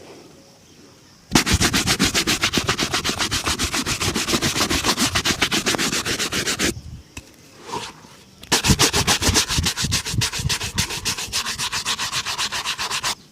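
A shoe being buffed to a shine with fast, rhythmic back-and-forth rubbing strokes, in two long runs with a short pause between them.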